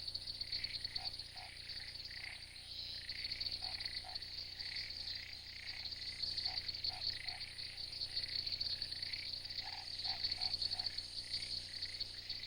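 Frogs calling in a chorus, with short croaks in pairs and small clusters and a faster repeating call, over a steady high-pitched trill of insects.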